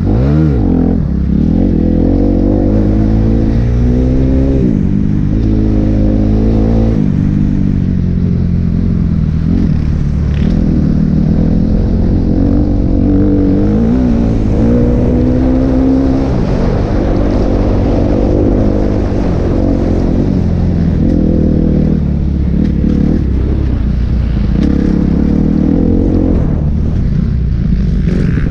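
Kawasaki KX250F single-cylinder four-stroke motocross engine revving hard while being ridden. Its pitch climbs and drops back many times over as the throttle is worked.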